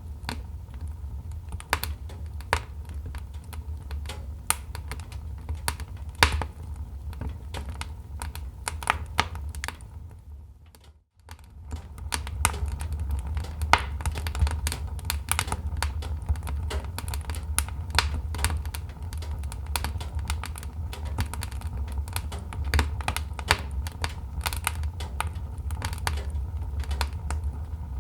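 Wood fire crackling in a fireplace: irregular sharp pops and snaps over a steady low rumble. The sound fades out almost completely for about a second, around eleven seconds in, then resumes.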